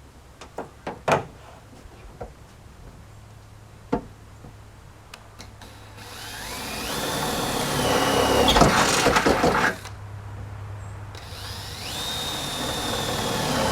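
Power drill drilling twice, each run a motor whine that rises in pitch and then holds steady for a few seconds, with a few sharp clicks and knocks before the first run. The drill is putting marker holes through the body to show where the cut will go.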